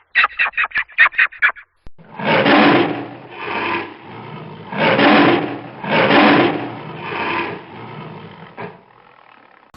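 A quick run of short calls from another animal, then a big cat roaring: five or six loud, rasping calls about a second apart that grow weaker and fade out.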